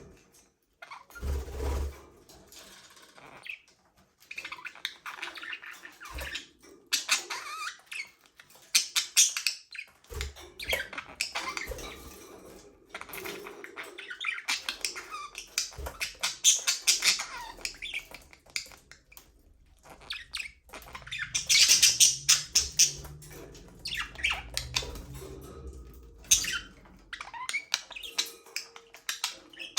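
Budgerigars chattering and chirping, a mix of squawks and rapid warbling in irregular bursts, several birds calling at once.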